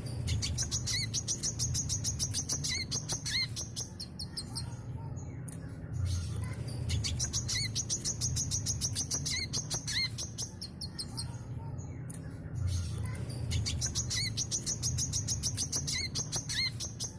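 Brown-throated sunbird (kolibri kelapa) singing: bursts of rapid, high-pitched twittering notes, each about four seconds long and coming back roughly every six seconds, over a low steady hum.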